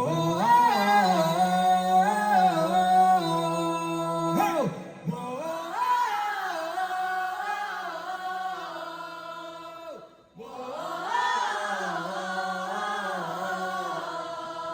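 A live band's song intro: a singer's voice in three slow, drawn-out phrases over a steady held accompanying chord, with short breaks between the phrases.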